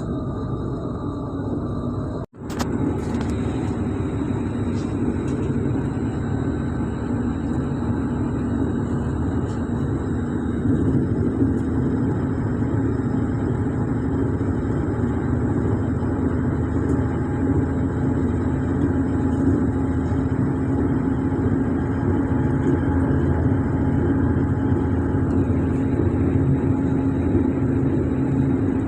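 Belarusian Stadler FLIRT electric multiple unit running on the track: steady rumble of wheels on rails with a steady high whine. The sound cuts out briefly about two seconds in, then resumes.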